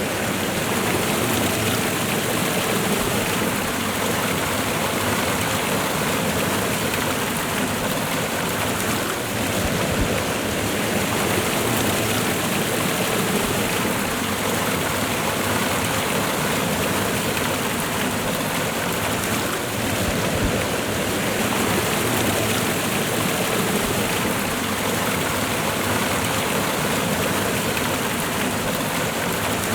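Waterfall and river water rushing steadily, a dense, even sound without breaks.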